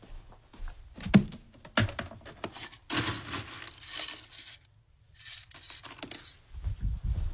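A plastic treat bag crinkling and rustling as it is shaken and torn at, in several bursts, with low bumps near the end.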